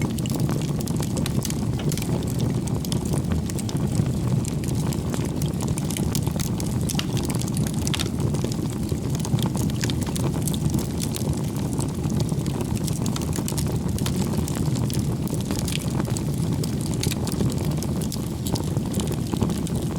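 Wood bonfire burning: a steady low rumble of flame with frequent small, irregular crackles and pops from the burning firewood.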